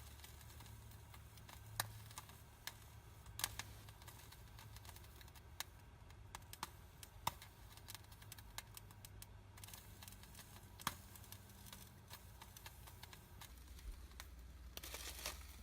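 Firelog burning in a fireplace, giving sparse, irregular soft crackles and snaps over a low steady hum.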